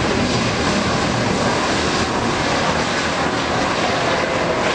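Airbus A320neo jet engines running as the aircraft taxis in after landing: a steady, even rushing noise.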